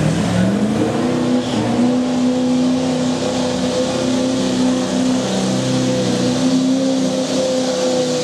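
A pulling truck's engine at a truck pull, revving up over the first second and a half and then held at high, steady revs under load while dragging the sled.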